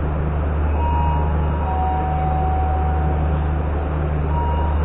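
Steady low diesel drone of a train at a station platform, with faint thin tones that come and go above it.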